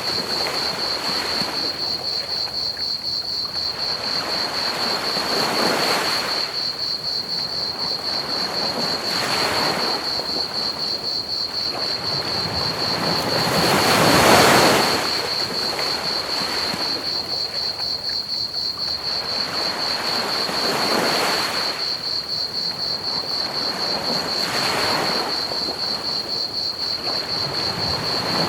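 Ocean waves washing onto a beach in slow swells every few seconds, the biggest about halfway through, over a steady high chirping of crickets and a constant hiss of pink noise.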